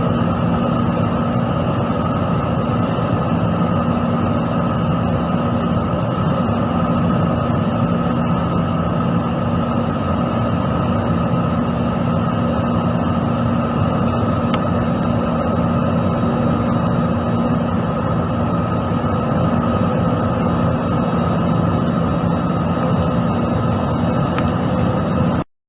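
Steady jet engine noise heard inside an airliner cabin as the plane climbs after takeoff: an even rush with a few constant hums. It cuts off suddenly near the end.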